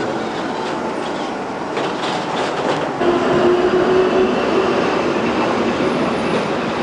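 Budapest tram running through pointwork, its wheels rumbling and clattering over the rail joints and the double slip, with a steady mid-pitched tone about three seconds in that lasts a couple of seconds.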